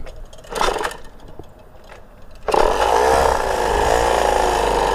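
A small moped engine comes in suddenly about halfway through and runs on loudly with a wavering, uneven pitch.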